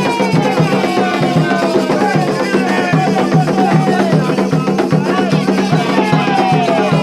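Candomblé ritual music for Xangô: atabaque hand drums keep a steady beat while voices sing a chant with sliding melodic lines over them.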